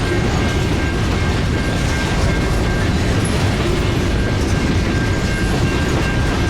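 Train cars rolling steadily past at trackside, the wheels clattering over the rails.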